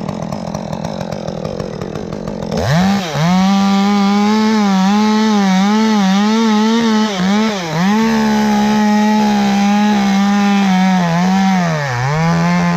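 Chainsaw running at low throttle, then opened up to full throttle a little under three seconds in and cutting into a dead, rotten tree. Its high engine note wavers in pitch through the cut and dips sharply twice.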